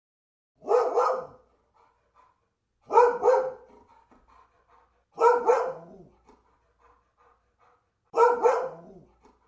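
A dog barking in four sets of two quick barks each, about two to three seconds apart.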